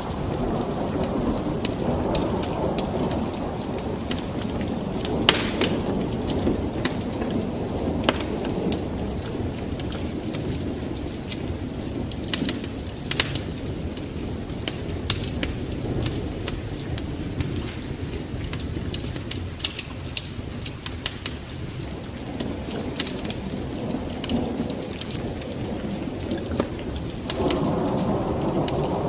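Wood fire burning in a fireplace: a steady low rush of flames with irregular sharp crackles and pops. The rush grows louder near the end.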